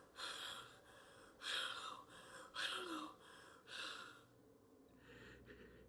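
A man breathing heavily and unsteadily, four audible breaths about a second apart, then quieter breathing.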